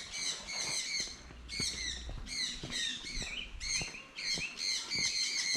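Small birds chirping: a rapid string of short, high chirps, a few each second, with scattered faint clicks among them.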